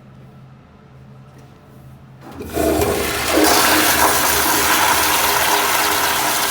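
American Standard toilet flushing: a low hum, then about two seconds in a sudden loud rush of water that runs on steadily.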